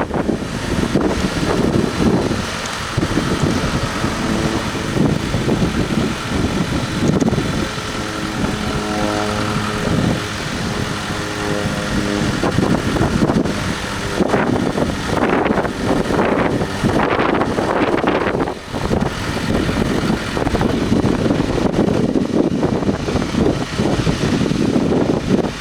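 John Deere 6140D tractor's diesel engine running steadily.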